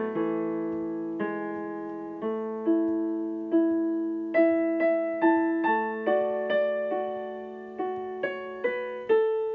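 Solo piano playing a slow, gentle melody, each note struck and left to fade.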